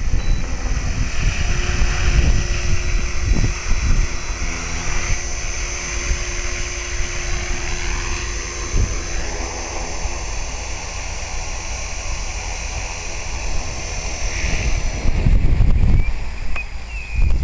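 HK-450 electric RC helicopter flying: the steady whine of its brushless motor and rotor, with gusty wind buffeting the microphone. The motor whine cuts off about fifteen seconds in, leaving wind noise.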